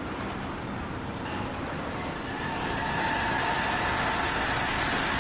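Steady mechanical running noise, with a whining tone that comes in about two and a half seconds in.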